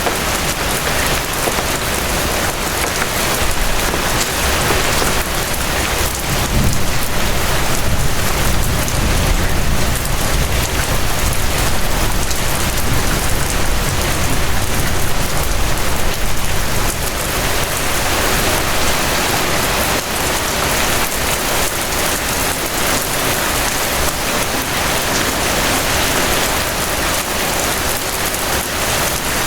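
Steady rain falling in a continuous dense hiss. A deeper low rumble swells through the middle stretch and then eases off.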